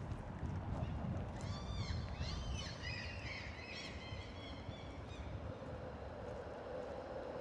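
Birds calling: a run of short, harsh, arched notes lasting about three seconds, over low city rumble.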